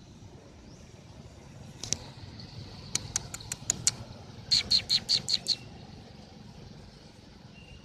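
Two quick runs of short, sharp bird-like calls over a steady low rumble: about six faint clicks, then about six louder chirping notes.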